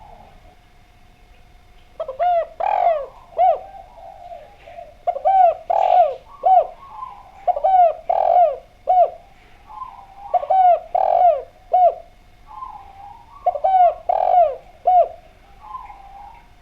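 Spotted dove (derkuku) cooing in a clear voice: five phrases of three or four arched coo notes, with fainter coos between them.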